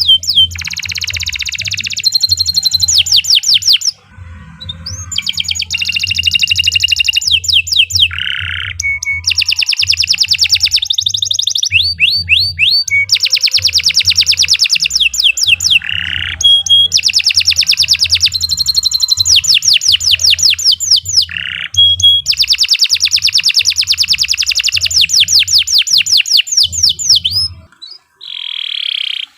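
Domestic canary singing long, fast rolling trills in phrases, with short breaks between them. The song stops near the end, followed by one brief note.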